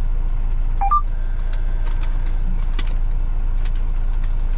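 Semi truck's diesel engine idling steadily, a low rumble heard from inside the cab. A brief two-note chirp sounds about a second in, and faint clicks and rustles follow.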